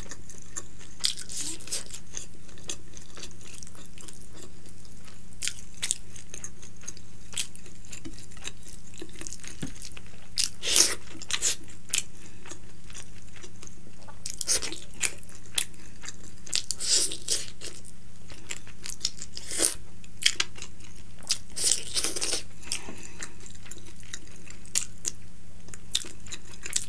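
Close-miked eating: crisp fried fish being bitten and chewed, with crunches that come in clusters, most of them between about ten and twenty-three seconds in.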